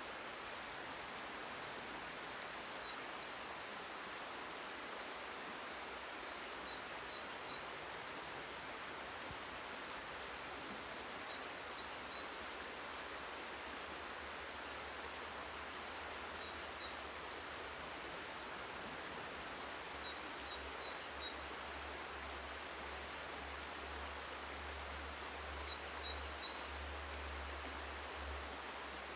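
Steady rushing hiss of a river running nearby, with short faint high chirps every few seconds and a low rumble coming in during the second half.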